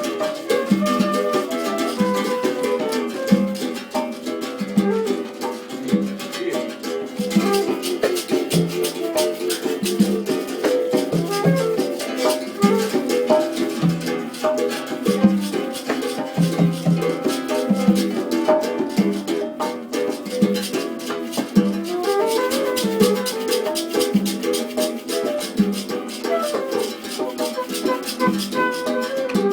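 Acoustic music played live: plucked string instruments strummed in a steady rhythm, with a hand-shaken rattle-type percussion instrument.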